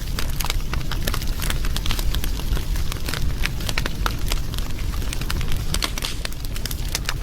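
Wood fire burning, with a steady low rumble of flames and frequent sharp crackles and pops.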